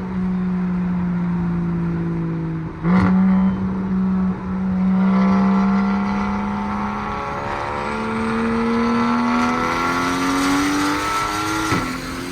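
Straight-piped single-turbo BMW N54 inline-six in a 335is, holding steady revs and then pulling with the revs rising gradually over the last several seconds. There are brief sharp cracks about three seconds in and again near the end.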